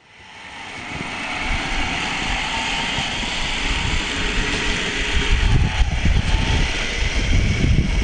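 A steady mechanical whir or hum that fades in over the first second, with gusts of wind on the microphone rumbling beneath it from about halfway through.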